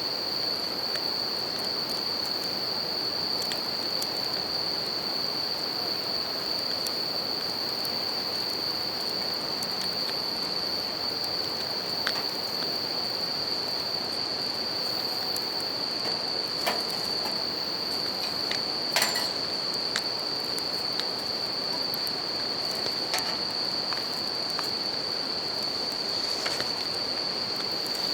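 Bell crickets (suzumushi) singing in a steady high ring over the constant rush of a river, with a few sharp crackles and pops from a wood campfire.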